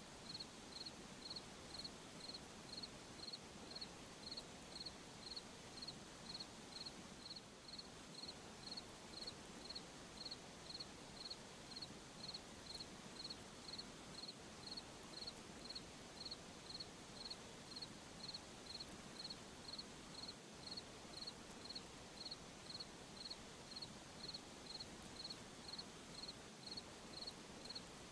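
A cricket chirping steadily at night, a short high chirp repeating at an even rhythm of roughly one and a half to two a second, over a faint hiss.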